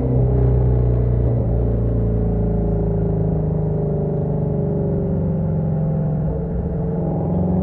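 Shelby GT350's 5.2-litre flat-plane-crank V8 exhaust as the car pulls in second gear from about 4,000 rpm. The pitch falls slowly as the revs drop off, then climbs again near the end.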